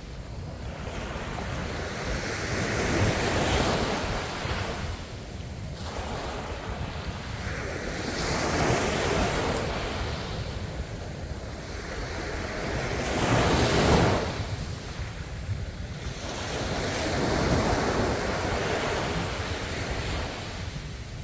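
Ocean waves breaking and washing on the shore, each surge swelling and drawing back about every four to five seconds, the biggest about two-thirds of the way through.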